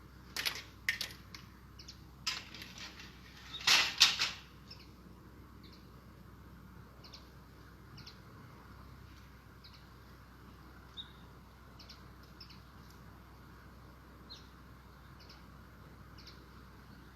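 Several sharp snips and rustles of handheld pruning tools working thuja branches in the first four seconds, the loudest cluster about four seconds in. Faint short high chirps, likely small birds, follow about once a second.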